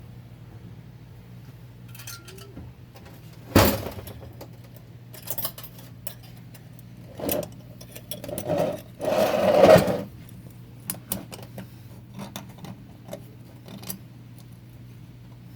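Metal parts of a 4L60-E automatic transmission being handled during teardown. A sharp clank comes about three and a half seconds in, with scattered clinks and scrapes and a longer clatter around nine to ten seconds. A steady low hum runs underneath.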